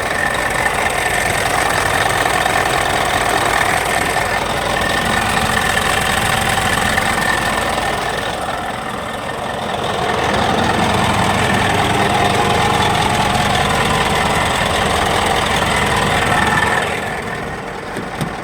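Scania R440 truck's six-cylinder diesel engine running steadily, dipping in level briefly about halfway through and falling off near the end.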